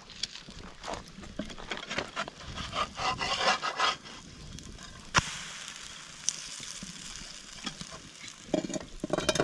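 Pancakes cooking in a frying pan: a spatula scraping and clinking against the pan in irregular strokes, with one sharp click a little after five seconds in.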